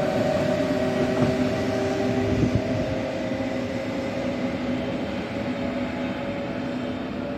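Electric Frecciarossa high-speed train moving away along the line: rolling noise and a steady hum of several tones from its electric drive, fading as it goes.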